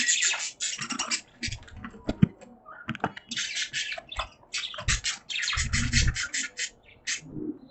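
Budgies chattering in rapid runs of scratchy chirps and clicks, with a few dull low thumps mixed in.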